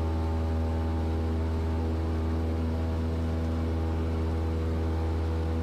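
Cessna 172S Skyhawk's four-cylinder Lycoming engine and propeller droning steadily at climb power just after takeoff, heard inside the cabin.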